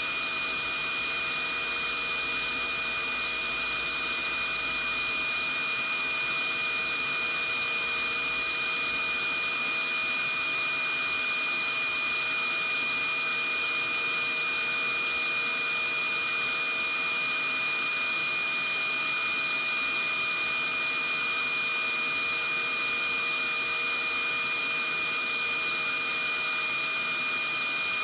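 Vacuum cleaner running steadily: an even hiss with a steady high whine on top.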